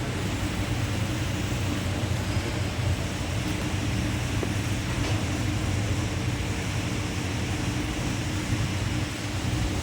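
Steady hum of running industrial machinery: a constant low drone with an even rush of noise over it, unchanging throughout.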